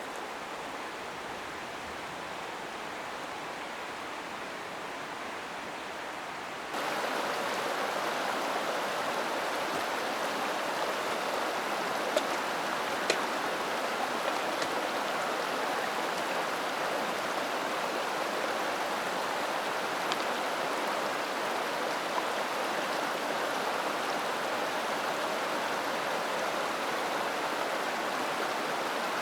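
Mountain stream flowing, a steady rush of water. About seven seconds in it suddenly becomes louder and brighter, and a few faint sharp ticks stand out over it.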